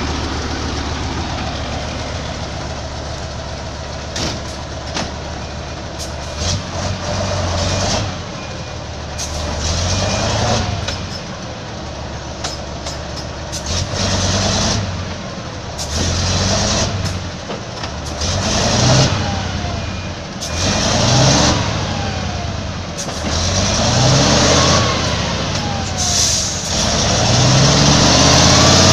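Heavy truck engine revving up and dropping back over and over, about every two seconds after the first few seconds, with sharp breaks between the revs.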